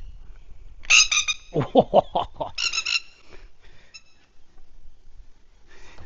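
Plovers giving rapid, pulsed alarm calls: a loud burst about a second in and another near three seconds, with a few lower falling notes between them and fainter calls near the end. The birds are scolding an intruder near their hidden chicks.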